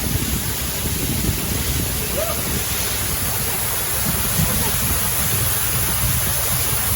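Waterfall water rushing with a steady, loud roar.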